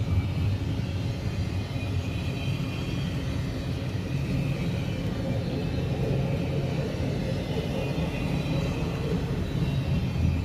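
Double-stack intermodal well cars of a freight train rolling past, a steady rumble of steel wheels on rail.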